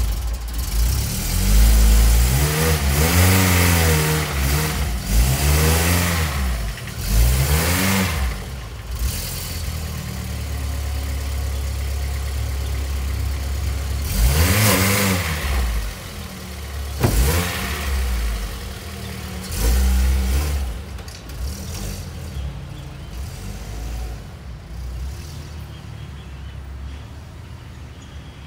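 A car engine revving up and easing off several times, its pitch rising and falling, then settling lower and fading toward the end.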